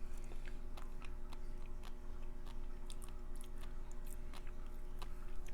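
A person chewing food close to the microphone, with many small, sharp wet mouth clicks.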